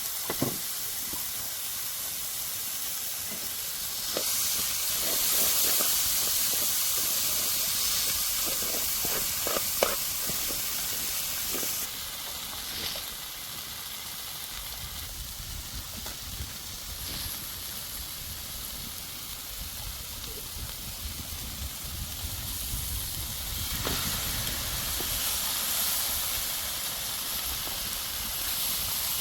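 Steady hissing of food cooking over a fire, with a few light clicks in the first ten seconds.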